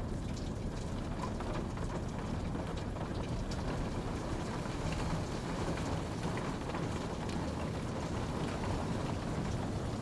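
Steady rainfall: an even, continuous wash of rain noise with a low rumble, and scattered drops ticking through it.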